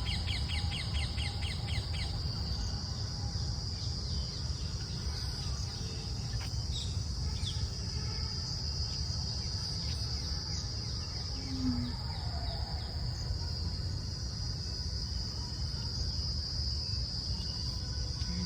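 Steady high-pitched insect chorus, with a rapid run of chirps in the first two seconds and a few scattered bird chirps later. A low rumble runs underneath.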